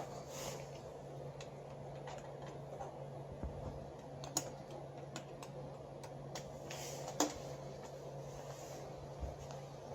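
Scattered light clicks and taps of small fuser parts and tools being handled, over a steady low hum.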